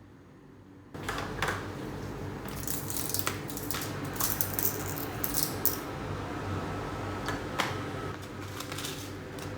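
Small clicks and taps of objects being handled, over a steady low hum that starts about a second in.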